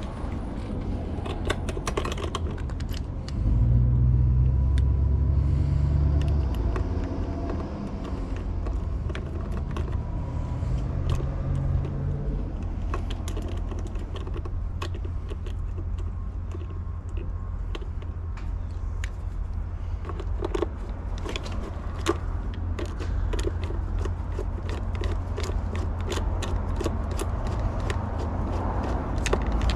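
Small metal clicks and taps of lock hardware and screws being handled and fitted, coming thick and fast in the second half, over a steady low rumble that swells loudly from about three and a half seconds to seven seconds and again briefly around ten to twelve seconds.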